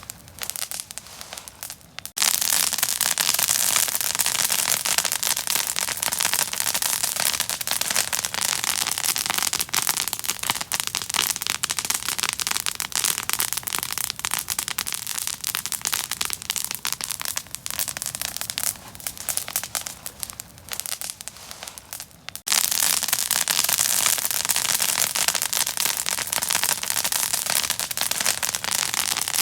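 Fire crackling and popping with dense, rapid cracks. The crackle suddenly grows loud about two seconds in, thins out for a few seconds past the middle, then jumps back to full loudness again abruptly near the end.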